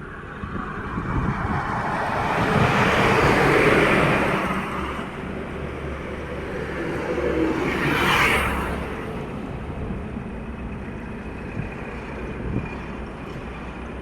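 Highway traffic: vehicles passing over a steady low rumble, one long swell rising and fading about three to four seconds in and a shorter pass about eight seconds in.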